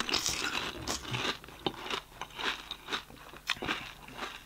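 Crunching and chewing of crisp fried panipuri shells, a run of irregular crackly crunches.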